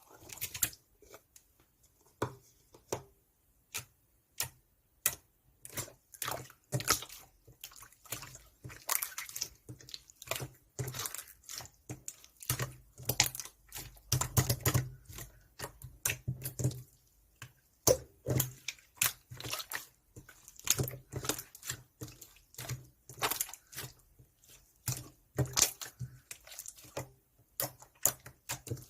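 Slime being squeezed and pressed by hand, giving a quick irregular run of wet clicks and pops.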